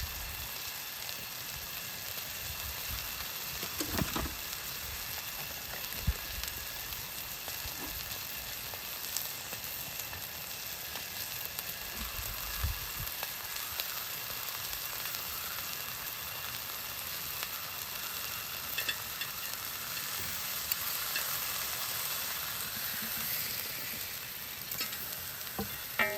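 Meat frying with a steady sizzle, with a few short knocks from handling the food and cookware.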